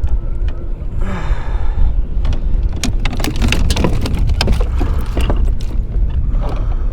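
Wind rumbling on the microphone aboard a kayak, with a run of sharp clicks, knocks and splashy ticks through the middle.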